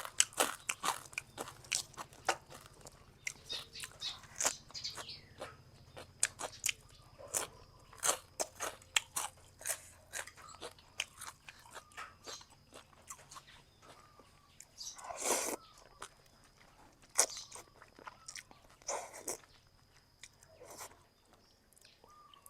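Close-up eating of boat noodles with sliced pork: bites and crunchy, wet chewing made up of many irregular sharp crackles, with one longer noisy sound about fifteen seconds in.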